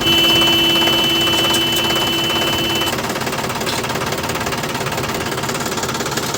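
A small motor running with a rapid, steady mechanical rattle. A steady whine sounds over it at the start and cuts off about three seconds in.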